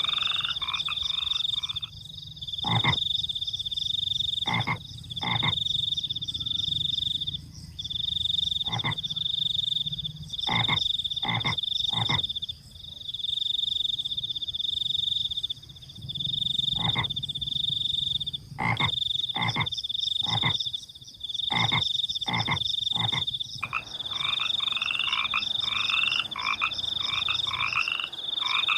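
A night chorus of frogs and crickets. Frogs give short single croaks at irregular intervals over a crickets' high, steady trill that breaks off now and then. A faster run of rapid repeated calls is heard at the start and again from the last few seconds on.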